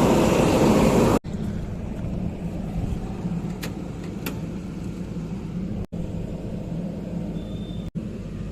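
Heavy diesel machinery engine running, loud for about the first second, then cutting abruptly to a quieter, steady low rumble. There are two sharp clicks near the middle and a brief high beep near the end.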